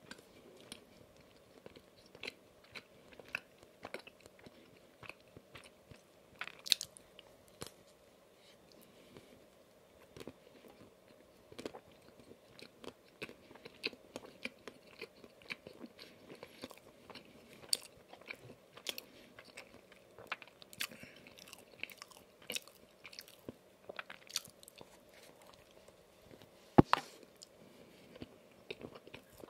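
Close-miked chewing of a soft, iced, filled yeast donut: irregular wet mouth clicks and smacks, with one sharper, louder click near the end.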